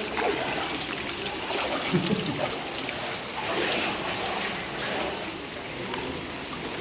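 Floodwater flowing in a steady rush.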